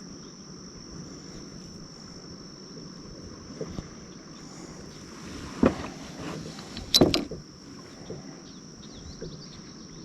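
A steady high-pitched insect drone over a low outdoor hiss, broken by a couple of sharp knocks a little past halfway, the loudest at about seven seconds.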